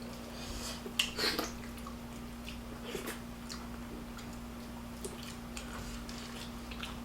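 Close-up eating sounds of a rice and chicken meal: scattered chewing and small mouth and food clicks, the loudest cluster about a second in, over a steady low hum.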